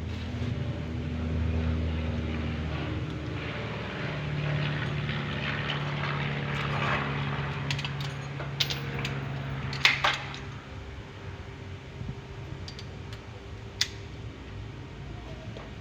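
A motor running with a steady hum whose pitch shifts, and a few sharp knocks, the loudest about ten seconds in and another about fourteen seconds in.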